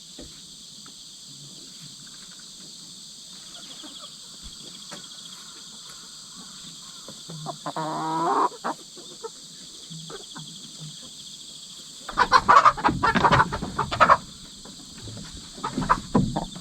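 Chickens in a coop: one hen gives a single drawn-out call about eight seconds in, and a few seconds later there is loud scratching and rustling close to the microphone, with shorter bursts of it near the end. Insects chirr steadily in the background.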